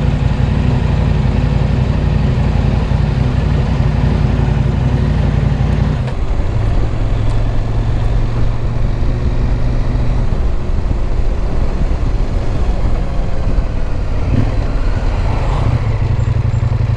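Motorcycle engine running at low speed, close and steady. Its note drops to a lower pitch about six seconds in and rises again near the end.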